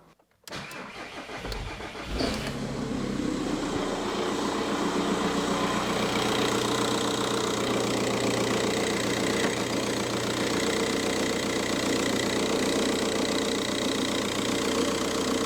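Car engine cranked by the starter for about two seconds, then catching and settling into a steady idle. The owner blames a worn belt tensioner for the idle's rattly, jingling noise.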